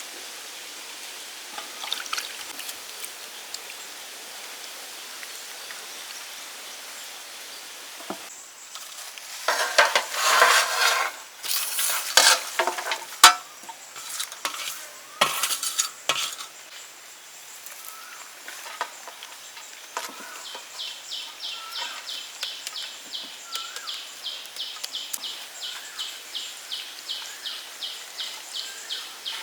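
Food sizzling in a pan, with loud irregular stirring and clattering of a utensil against the pan through the middle. In the last third, a rhythmic high-pitched chirping at about two chirps a second, like an insect.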